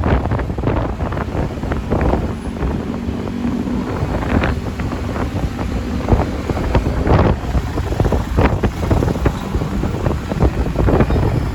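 Wind buffeting the microphone of a rider on a moving motorcycle, in loud irregular gusts over the running motorcycle and surrounding traffic.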